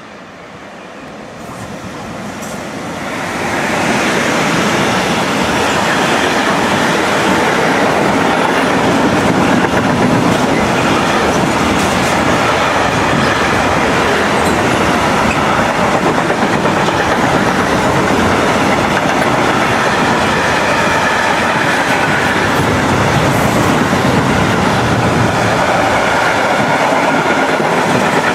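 A train passing close by: the rolling noise of its wheels on the rails grows over the first few seconds as it approaches, then stays loud and steady.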